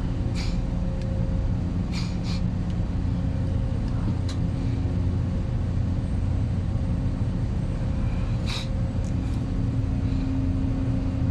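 Air handling unit's blower running with a steady low rumble and hum: the abnormal noise and vibration that the technician puts down to the supply-duct damper not being fully open. A few sharp clicks or knocks sound over it.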